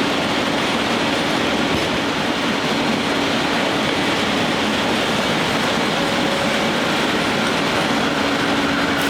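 Steam-powered sawmill machinery running, a steady mechanical noise with a faint hum underneath.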